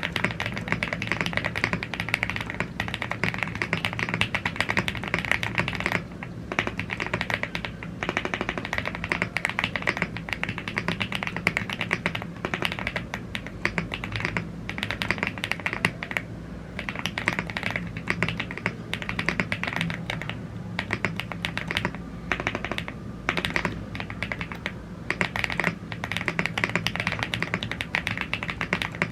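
Continuous fast typing on a YUNZII AL75 gasket-mounted aluminium mechanical keyboard with Blue Grey tactile switches and double-shot PBT Cherry-profile keycaps. Dense clacky keystrokes with a few short pauses.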